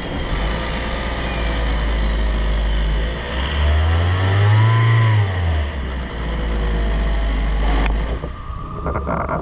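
A 2025 Hyundai Elantra's 1.6-litre four-cylinder engine running steadily, revved once about three and a half seconds in, its pitch rising smoothly and falling back to the steady run about two seconds later. A few sharp clicks come near the end.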